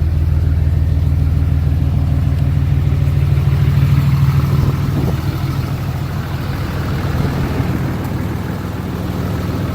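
6.7-litre Cummins turbo-diesel inline-six of a Ram 2500 idling steadily, the level dipping slightly about halfway through.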